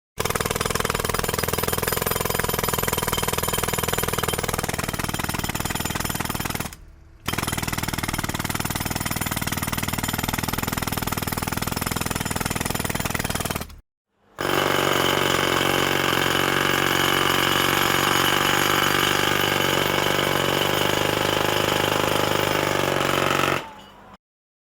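Rapid, steady mechanical hammering, in three separate takes of roughly seven, seven and ten seconds with short silences between; the third take is brighter.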